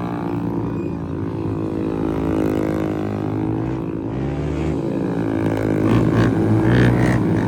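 Motorcycle engine running, its pitch dipping and rising again with the revs.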